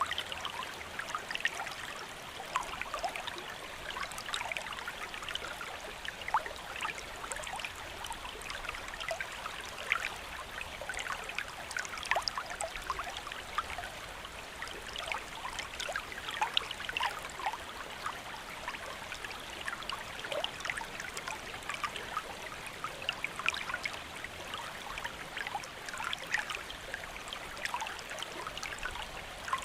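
Steady rain falling, a constant hiss dotted with many small drip and splash ticks.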